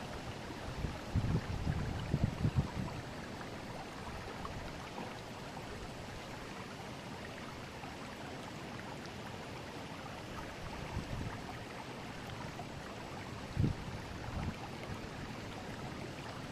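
Steady rushing of a river's current. A few brief low bumps come between about one and three seconds in, and again a little before the end.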